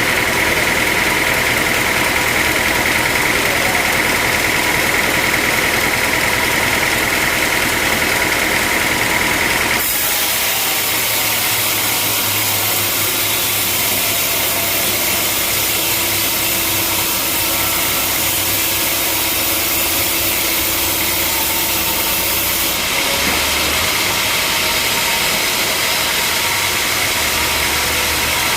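Sawmill machinery running loudly and steadily, an engine-driven drone mixed with hiss, its character changing abruptly about ten seconds in and again near the end.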